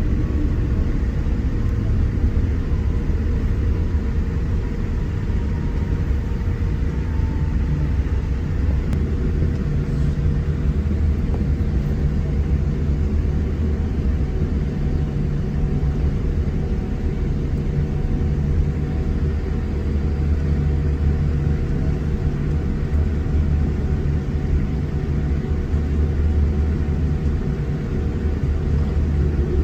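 Cabin noise inside a Boeing 787-8 taxiing after landing: a steady low rumble from the engines at idle and the wheels rolling, with a faint steady hum above it.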